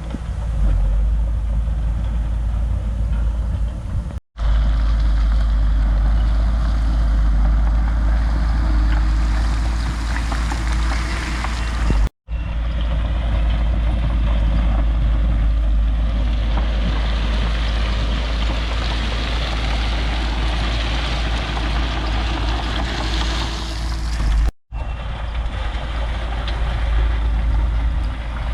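Heavy diesel construction machinery running steadily with a deep engine rumble. The sound cuts to silence for an instant three times.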